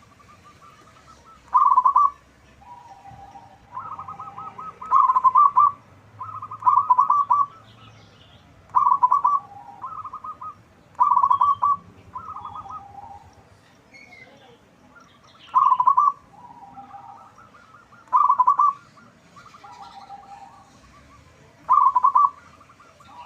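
Zebra dove (perkutut) cooing repeatedly: phrases of softer steady coos alternating with about eight loud, rolling, trilled notes.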